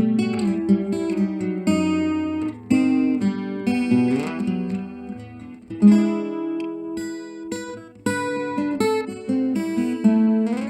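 Acoustic guitar played through a Fender Acoustasonic 15-watt acoustic amplifier: chords and melody notes, each struck chord ringing out before the next, with a fresh attack every second or two.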